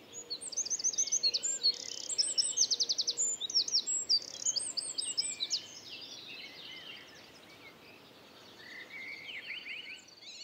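Birdsong: rapid, varied high chirps and trills, busiest in the first half, then fading. A lower-pitched run of chirps comes near the end.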